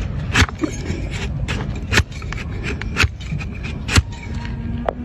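A blade cutting through a donkey's hoof horn during hoof trimming: four sharp cracks about a second apart over a steady low noise.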